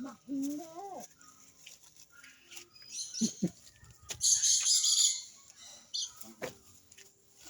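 Birds calling, with a loud, harsh, noisy burst lasting about a second around four seconds in.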